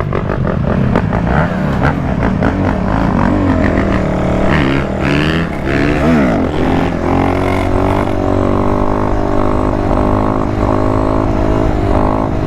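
Dirt bike engines revving up and down as the bikes ride around, with pitch glides as the throttle opens and closes. About six seconds in, one engine's pitch rises and another's falls, so the two cross.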